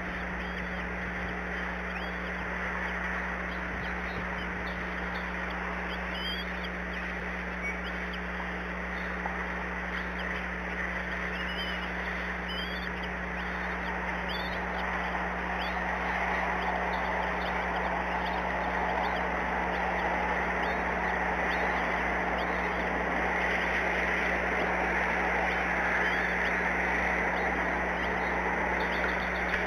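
Short, high bird calls come and go, mostly in the first half, over a steady hiss and a low hum. The hiss grows louder in the second half.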